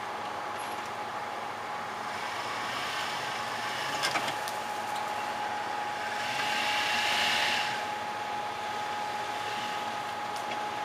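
Jeep Cherokee running on the trail while hung up on its front differential, a steady engine and motor noise that grows louder for a couple of seconds about six seconds in as it works to get over.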